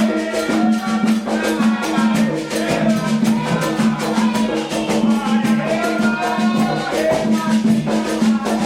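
Candomblé ritual music: drums and shakers playing a fast, steady rhythm with voices singing over it.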